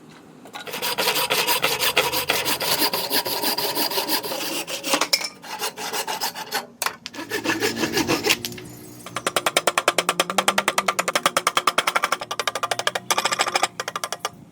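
Hand rasp or file scraping a wooden axe handle as it is shaped, in quick back-and-forth strokes. There is a short break a little past halfway, then a run of fast, even strokes.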